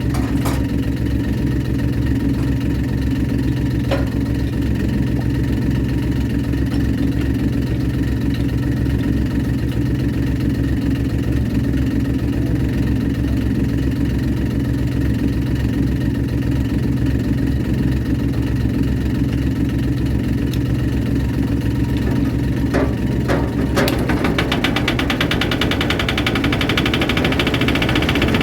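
Diesel engine idling steadily with a few clicks. Near the end a second, faster-firing engine with a fine rattling beat joins in, starting up.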